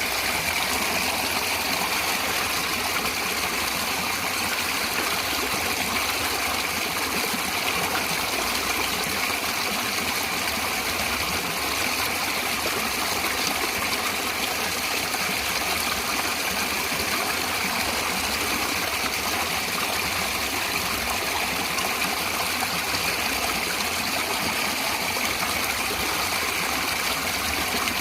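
Flowing stream water rushing and splashing steadily, an even unbroken noise.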